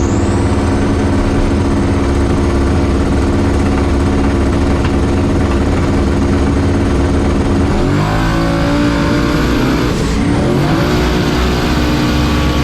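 Drag-racing car engine at full throttle, held at high revs, with two upshifts where the pitch dips and climbs again in the later part.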